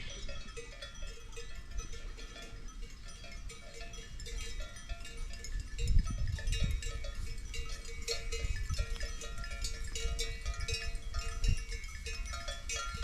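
Many small bells clinking and ringing irregularly, with low gusts of wind rumbling on the microphone, strongest about halfway through.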